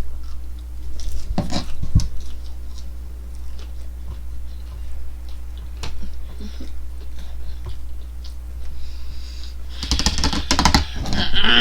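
Close-up chewing and mouth sounds of someone eating chicken nuggets: small wet clicks and smacks over a steady low hum, with a louder, denser cluster near the end.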